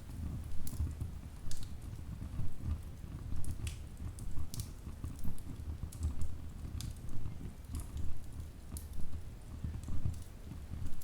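Wood fire burning in a fireplace: a steady low rumble of flames with sharp crackles and pops from the logs, one or two a second at irregular intervals.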